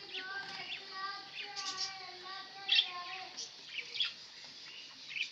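Budgies chattering: a wavering, warbling chatter broken by short, sharp high chirps, the loudest about three and four seconds in.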